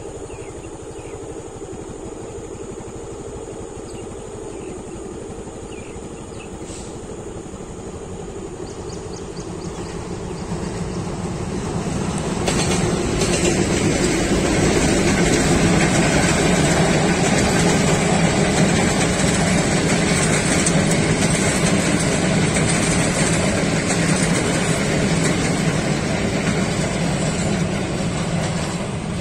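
Diesel locomotive hauling an express passenger train, approaching and then passing close by. Its engine drone builds from about ten seconds in and is loudest as the locomotive and coaches go past, with the wheels clattering on the rails.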